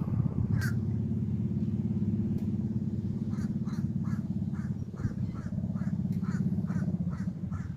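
A bird calling in a fast run of short, harsh, crow-like notes, about three a second, starting about three seconds in, over a steady low rumble.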